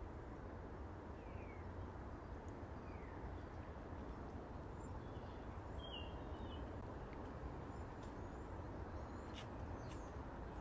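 Steady low background noise with a few faint, brief high chirps and a couple of soft ticks near the end.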